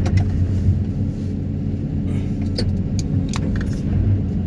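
Excavator carrying a vibro hammer for pulling sheet piles, running with a steady low machine drone, with a few sharp clicks over it.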